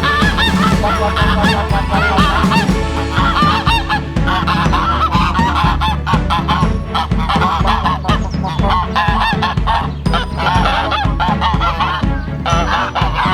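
A flock of geese honking, many overlapping calls without a break.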